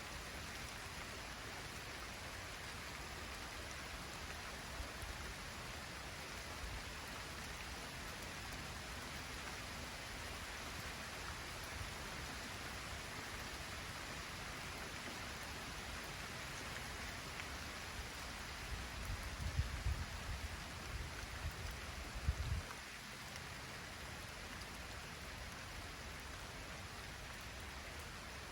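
Light rain falling steadily, an even hiss of drops. About two-thirds of the way through comes a few seconds of low rumbling that stops suddenly.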